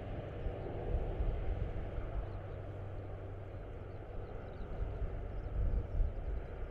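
Distant drone of an Airbus A400M's four turboprop engines as the aircraft climbs away just after takeoff, a steady low rumble.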